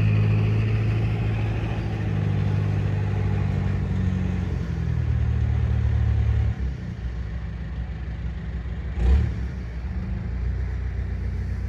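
An engine running steadily with a low hum. Its note and loudness drop about six and a half seconds in, and a single thump sounds about nine seconds in.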